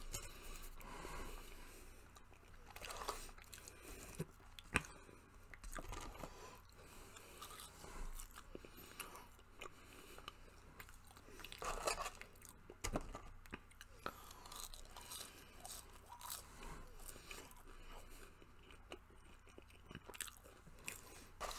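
Quiet close-up chewing of Burger King french fries, with small crunches and wet mouth smacks every second or two.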